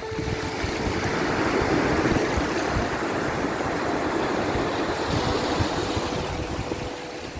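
Sea waves rushing and washing, a steady surge that swells about two seconds in and eases off near the end.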